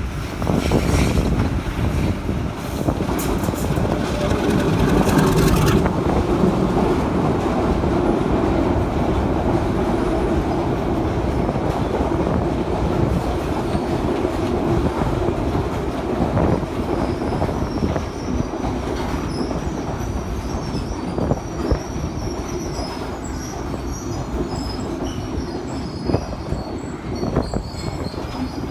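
A train running along the track with a steady rumble of wheels on rails. From a little past halfway, a thin, wavering, high-pitched wheel squeal rides over the rumble.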